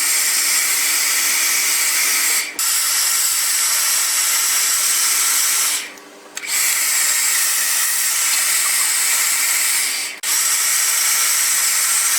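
Hair dryer running on high, a steady hissing whir with a faint whine, blowing hot air through a plastic water bottle to curl hair. It cuts out briefly three times, about two and a half, six and ten seconds in.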